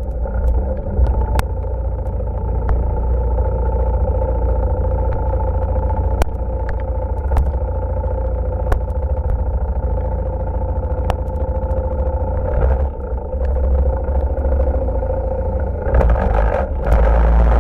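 ATV engine running at a steady speed over a deep rumble, with scattered sharp clicks and knocks; it gets louder about a second before the end.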